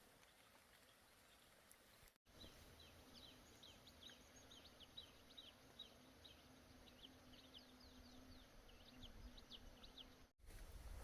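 Faint outdoor animal calls: a rapid series of short, high chirps, several a second, over a low steady hum, cutting in about two seconds in and stopping near the end.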